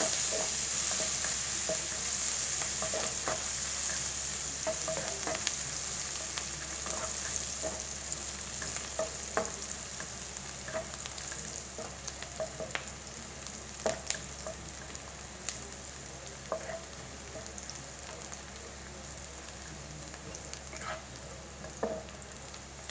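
Chopped onion and garlic sizzling in hot oil in a nonstick wok, being sautéed until soft, while a plastic spatula stirs and scrapes them with scattered light taps. The sizzle slowly dies down.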